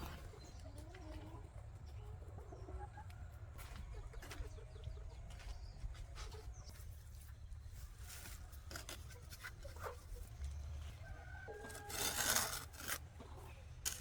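Chickens clucking and calling softly over a low background hum, with scattered small clicks. About twelve seconds in comes a brief, louder rustling noise.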